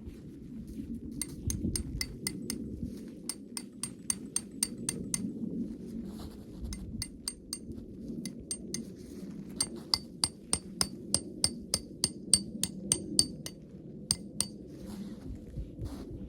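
Repeated light clinks of a small hard object that rings at the same pitches each time, in irregular runs of about three or four a second, over a low steady rumble.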